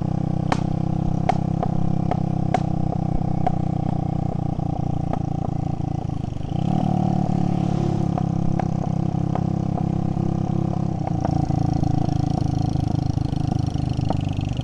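Motorbike engine running steadily under way, its exhaust end piece missing. Sharp clicks and knocks come through the engine sound, and the engine note shifts about six and a half seconds in and again near eleven seconds.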